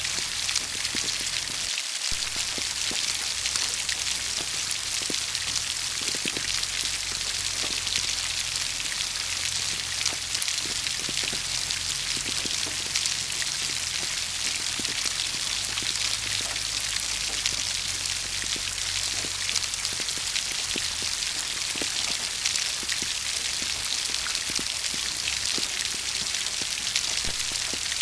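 Steady rain: an even hiss of rainfall with many individual drops pattering on a surface.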